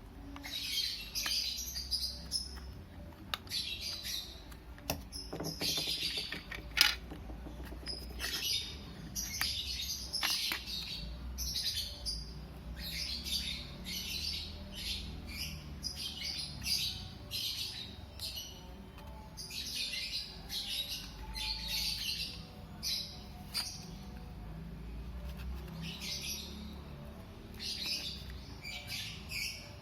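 Small birds chirping over and over in short high calls, with a few sharp clicks about six to seven seconds in.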